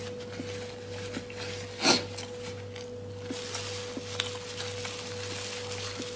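Close-up eating sounds of a person chewing a meat-filled flatbread wrap: small wet mouth clicks, with one louder, sharper burst about two seconds in. A steady hum runs underneath.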